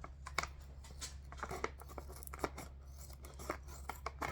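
Plastic treat bag being handled: scattered crinkles, rustles and small clicks, with no steady rhythm.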